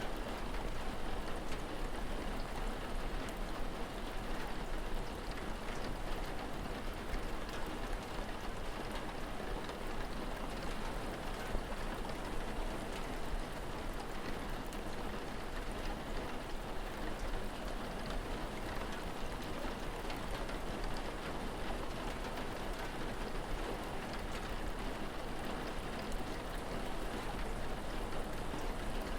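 Steady rain falling, a constant even patter of drops with a low steady rumble underneath.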